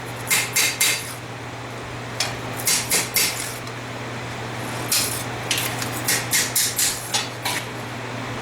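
Hand hammer blows ringing on a hot steel blade forged from a farrier rasp, in bursts of several quick strikes with short pauses between them: the blade is being hammered straight. A steady low hum runs underneath.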